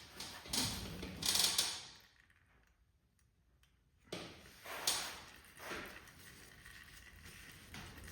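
A few scattered knocks and rustles of objects being handled, with a near-silent pause of about two seconds in the middle.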